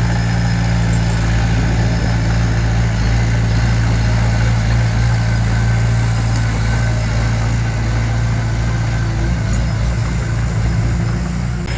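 Diesel engine of heavy construction machinery running steadily at a low, even drone.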